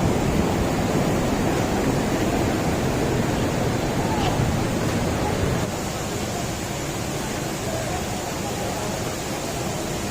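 Steady rushing roar of a large waterfall crashing into its pool, dropping somewhat in level a little past halfway.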